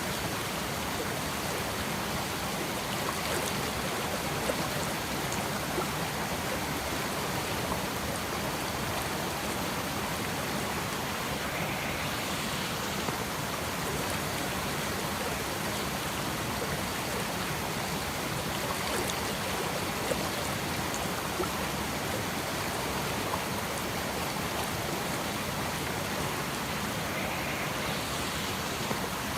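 A river flowing: a steady, unbroken rush of water with a few small splashes.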